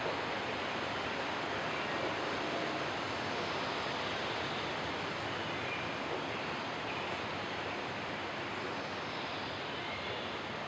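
Steady, even outdoor background hiss with no distinct events, like rushing water or wind.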